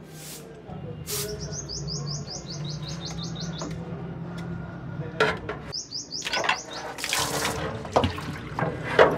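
A small bird trilling, quick runs of short high chirps at about five a second, twice. Around it come sharp metallic knocks from a wrench on the transmission pan, then splashing and dripping as the CVT oil pan comes off and the old fluid pours out.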